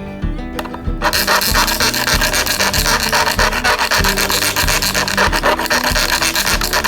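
Rapid abrasive rasping, a tool worked quickly back and forth over a surface, starting about a second in and running in dense strokes, over background music.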